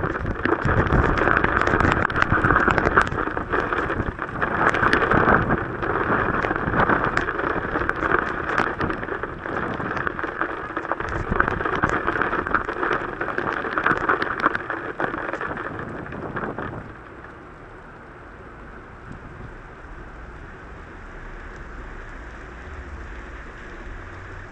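Heavy rain pelting down, a dense hiss full of close, sharp drop hits. About two-thirds of the way through, the loud pelting drops off suddenly to a softer, steady rain hiss.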